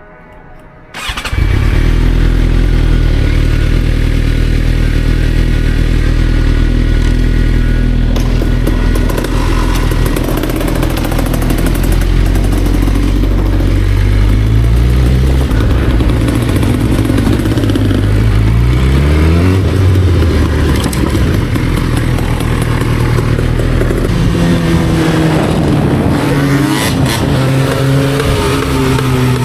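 Motorcycle engine running under way, cutting in abruptly about a second in. It holds steady at first, then accelerates several times in the second half, its pitch rising and dropping back at each gear change.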